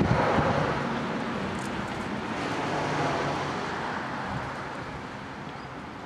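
Rushing noise of a passing road vehicle, loudest at the start and fading away over several seconds.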